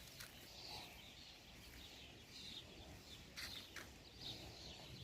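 Faint outdoor ambience with small birds chirping now and then and a few soft clicks.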